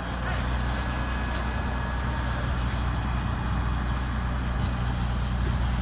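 Heavy truck engine running steadily, a deep low rumble that comes up louder at the very start, over a steady even hiss.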